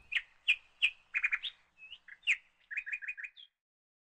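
Small bird chirping: several single sharp chirps and two quick runs of four, cutting off suddenly about three and a half seconds in.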